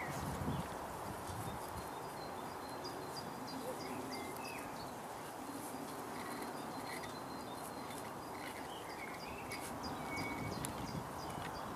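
Outdoor ambience: small birds chirping in short, scattered calls over a steady background hiss, with faint high ticking throughout.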